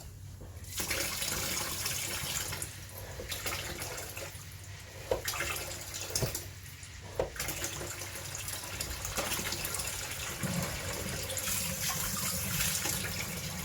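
Kitchen mixer tap, newly fitted with a ceramic gland, running water into the sink. The flow swells and thins several times, with a few sharp clicks in the middle as the lever is worked.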